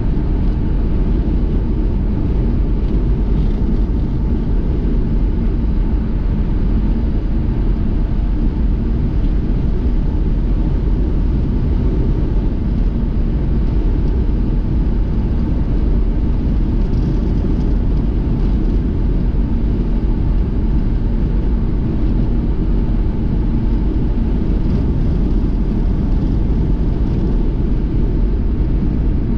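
A car driving at a steady speed: a continuous low rumble of engine and road noise.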